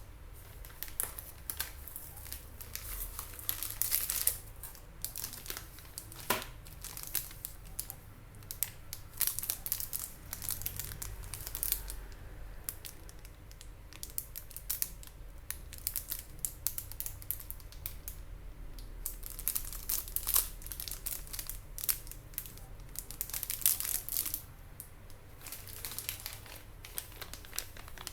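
Motherboard packaging crinkling and rustling as it is handled, with many irregular crackles and small clicks.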